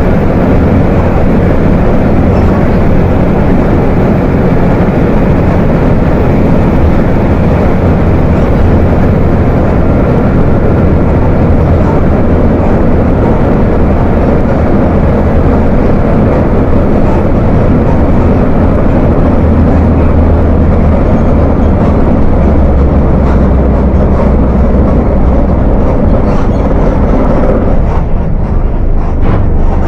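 Volkswagen 17.230 OD bus's diesel engine running under way with a deep, coarse rumble. Its pitch drops somewhat toward the end.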